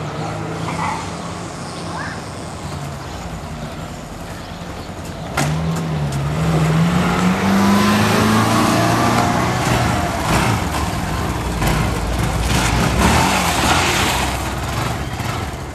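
Single-cylinder Honda trail motorcycle running at a steady engine speed. About five seconds in it is suddenly revved hard and its pitch climbs as it accelerates, then a loud rushing noise carries on until it eases near the end.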